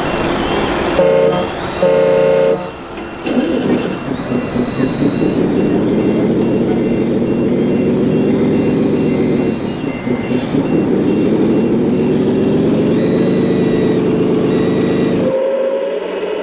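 Two short horn toots from a 1/14-scale RC construction vehicle, then its motors whining steadily, the pitch rising and falling as it works, cut off abruptly near the end.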